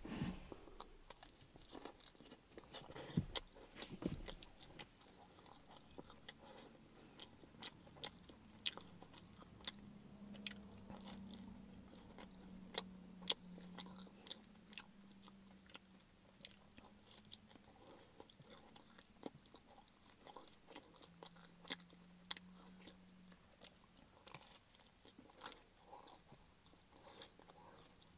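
Close-up chewing of a mouthful of pepperoni pizza, with irregular wet mouth clicks and smacks throughout.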